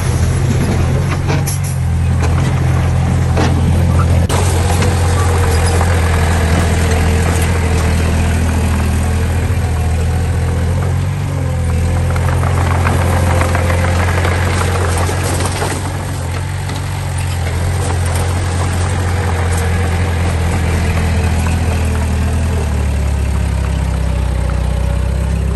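Diesel engines of a dump truck and small bulldozer running steadily at a work site, with a few brief knocks and a slight dip in level about two-thirds of the way through.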